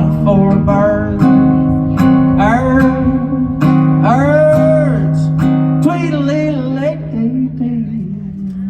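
Live acoustic guitar strumming a steady chord, with wordless vocal glides sung over it.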